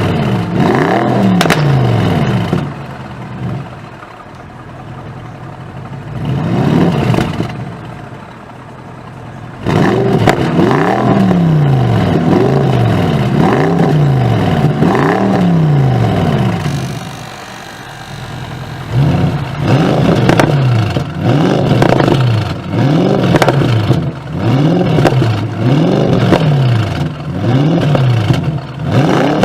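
Bentley Continental GT V8 S's twin-turbo 4.0-litre V8 through its sports exhaust, revved again and again in quick blips that each rise and fall in about a second. The revving breaks off three times for a few seconds of quieter idle.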